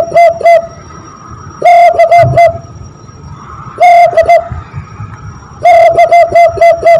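Zebra dove (perkutut) call imitated by blowing through cupped hands. It comes as phrases of quick, evenly repeated coos at one pitch, each coo dipping at its end, with a new phrase about every two seconds.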